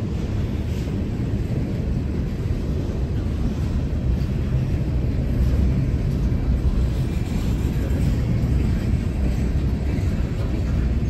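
Train rumbling past: a steady low rumble that swells slightly about halfway through.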